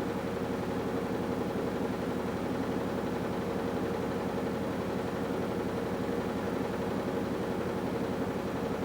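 AQUA washing machine with a direct-drive inverter motor running steadily, a continuous even hum with a fine rapid low pulsing and no pauses.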